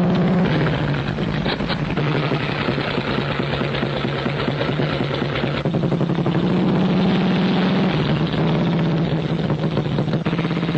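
Motorcycle engine running steadily, a continuous hum with a slight shift in its tone about six seconds in.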